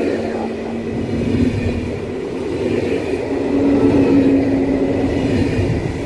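Italo Alstom AGV (ETR 575) high-speed electric train running past along the platform: a steady rumble of wheels on rail, with a low steady hum from the train.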